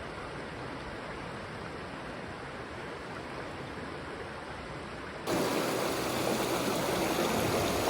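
Mountain stream running: a steady rush of water that jumps abruptly louder and brighter a little past five seconds in.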